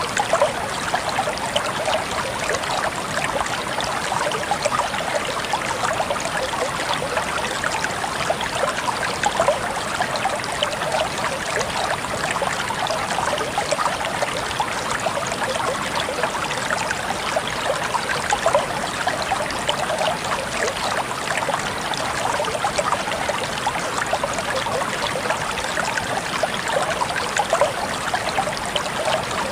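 Shallow stream flowing and burbling steadily over stones, a constant bright splashing without a break.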